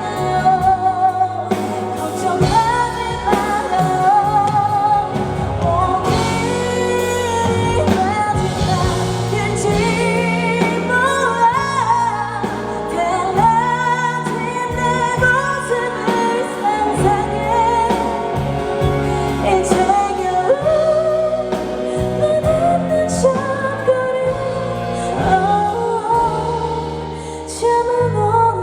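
Female pop vocalist singing a ballad live with band accompaniment over a PA in a large hall, her held notes wavering with vibrato. The loud live sound breaks up and distorts on the recording.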